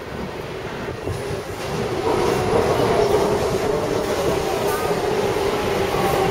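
Taipei Metro 301/371-type train running along the track, its rumble growing louder about two seconds in as it gathers speed. A faint rising whine comes in near the end.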